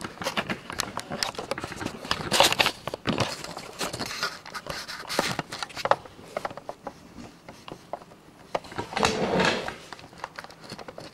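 Hands working cables and parts inside a PC case: scattered clicks, taps and rustling, with louder rustling bursts about two and a half seconds in and near the end.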